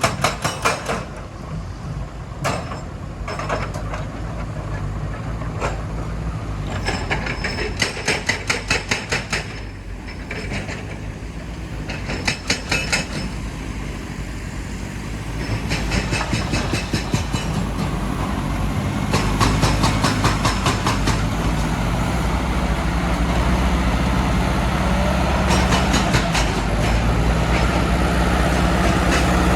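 Heavy diesel machinery running steadily, with several short runs of rapid metallic knocking a few seconds apart. The engine grows louder in the second half.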